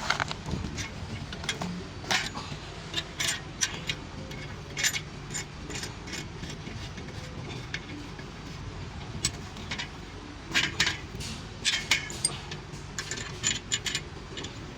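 Metal hand tools and small parts clinking and rattling in short irregular taps, over a steady low hum.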